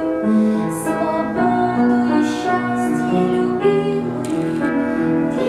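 A woman singing a slow, sentimental song with piano accompaniment, holding long notes.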